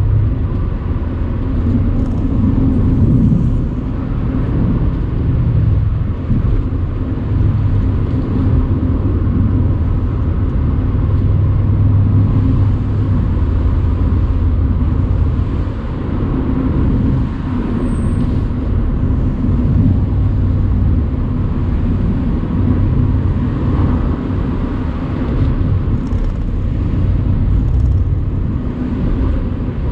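Mercedes-AMG C63's twin-turbo 4.0-litre V8 running as the car is driven along a country road, with tyre and road noise, heard with the convertible top open. The engine's low drone swells and eases a little with the throttle.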